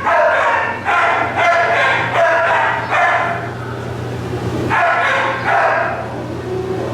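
Kennelled shelter dog barking in a series of short calls, pausing about halfway before barking twice more, over a steady low hum.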